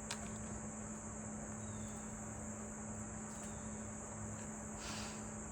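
Quiet background: a steady high-pitched whine and a low hum, with a few faint clicks and a short rustle about five seconds in.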